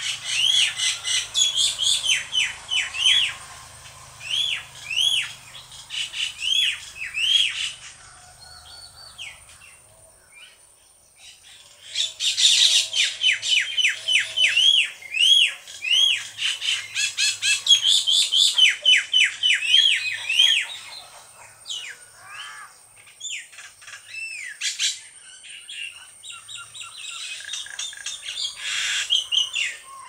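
Tailorbird calling: loud, arched chirps repeated about two or three a second, in two long bouts with a lull between them, then scattered calls.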